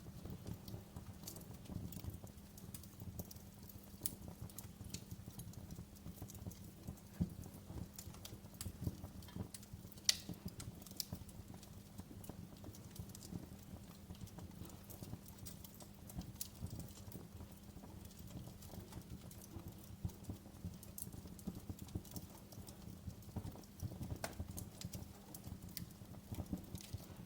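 Wood fire crackling, with irregular pops and snaps over a steady low hum; the sharpest pop comes about ten seconds in.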